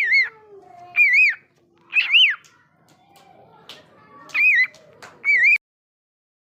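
A bird giving a series of about five short, clear calls that rise and fall in pitch, roughly a second apart. The sound cuts off suddenly near the end.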